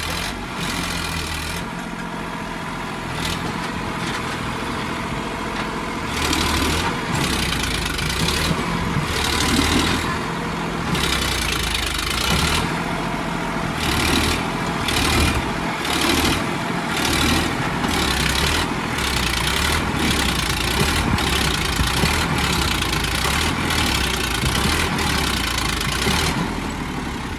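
Sonalika DI 745 tractor's diesel engine working under load, pulling a brick-loaded trolley stuck in mud. It runs steadily at first, gets louder about six seconds in, and then rises and falls again and again until near the end.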